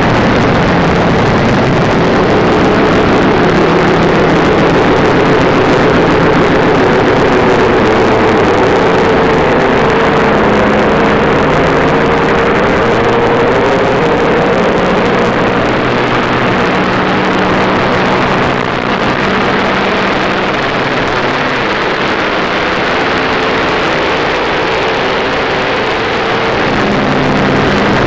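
Race car engine running hard at speed, a loud steady drone whose pitch climbs slowly over the first dozen seconds, with a brief drop in level about 19 seconds in.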